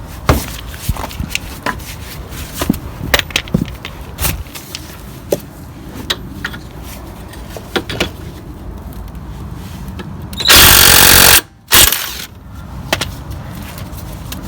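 Wire brush scrubbing metal brake parts in short, irregular scraping strokes. Near the end a very loud rushing noise lasts about a second and cuts off suddenly.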